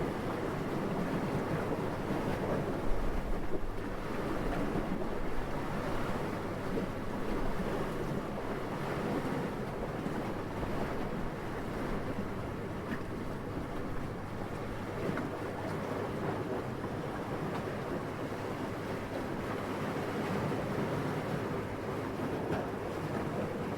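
Steady wind noise that swells and eases gently, with a brief low gust about three seconds in.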